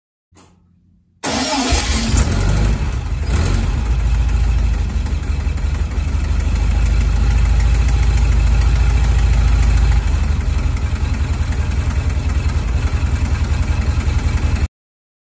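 Air-cooled VW flat-four engine, a new 1776cc unit in a 1969 VW Type 2 bus: a brief faint crank, then it catches about a second in and runs steadily. Its note changes around ten seconds in to a more pulsing run, and it cuts off abruptly near the end.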